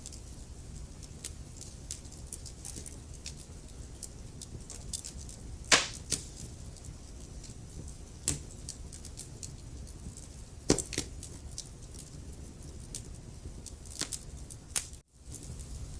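Burning wood logs crackling in a fireplace: a low steady rumble with irregular snaps and a few loud pops, the loudest about six and eleven seconds in. The sound cuts out for a moment about fifteen seconds in.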